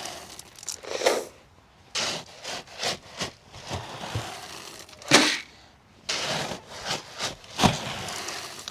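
Dry feed being scooped and poured into feed bowls: irregular rustling and scraping, with a few sharper knocks about one, five and seven and a half seconds in.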